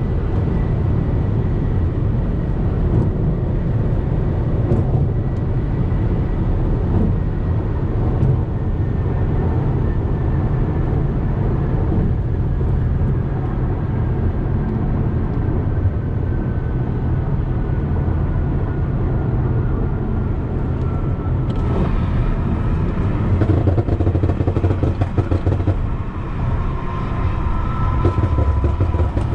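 A BMW M5 Competition's twin-turbo V8 and loud exhaust, running steadily while cruising. Under it is a deep rumble, and a faint high whine slowly falls in pitch. About two-thirds of the way through, the sound grows louder and rougher, with more hiss on top.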